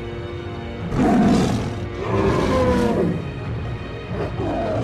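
Animated animal roars and growls, three in a row, over steady background music.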